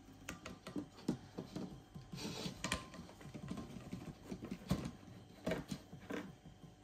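Irregular plastic clicks, taps and knocks from handling a catch cup and enclosure while a tarantula is caught; the loudest knocks come about a second in and near five seconds in.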